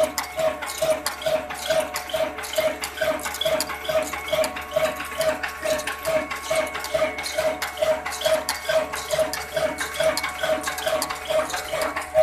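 Old 'kala engine', a slow-speed single-cylinder diesel, running steadily with an even beat of about two and a half firing pulses a second.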